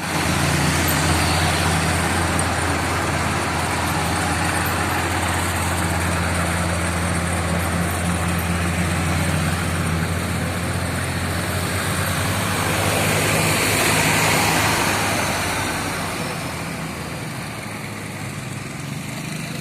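Heavy diesel engine of road-works machinery running steadily with a low hum. It grows louder about fourteen seconds in, then eases off and stays quieter to the end.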